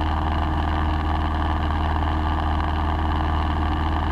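Light aircraft's piston engine and propeller droning steadily in cruise, heard from inside the cabin.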